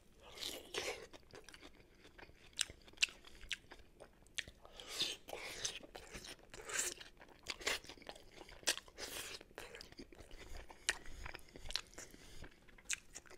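A person chewing and crunching a lettuce wrap of roast chicken, with crisp lettuce crunches and short mouth clicks coming irregularly.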